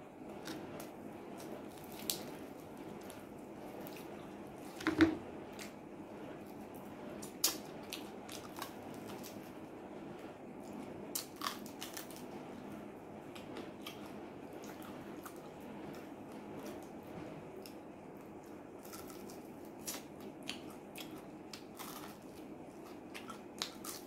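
Close-up eating sounds of a man chewing fried chicken, with many short crunches and wet mouth clicks scattered through. There is one louder thump about five seconds in.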